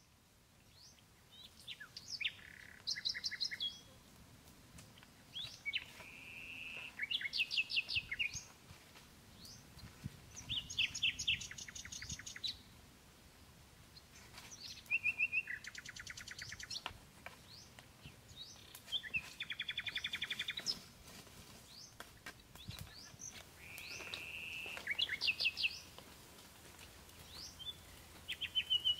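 A songbird singing the same phrase over and over, every four or five seconds: a short whistled note followed by a fast rattling trill.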